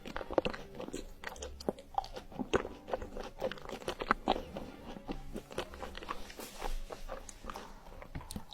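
Close-miked eating of crunchy food: a run of irregular crunching bites and chews.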